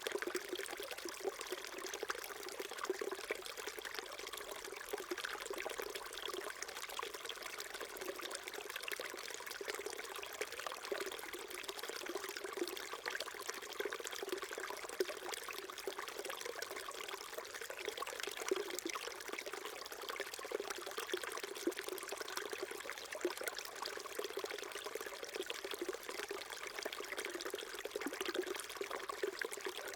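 Small mountain stream flowing steadily over rocks, a continuous babbling trickle of water.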